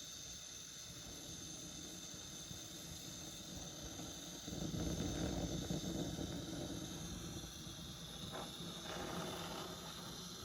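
Brazing torch flame hissing steadily. It grows louder and rougher for about two seconds near the middle, with a shorter swell near the end.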